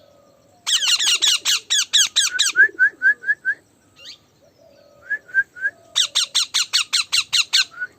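Pet parrot squawking: two bouts of fast, repeated harsh calls, about two seconds each, with a few short chirps between them.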